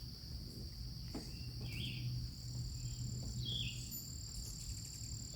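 A steady high-pitched insect chorus, with a second, higher insect tone joining about halfway, and a few short chirps from hummingbirds chasing each other around the feeders.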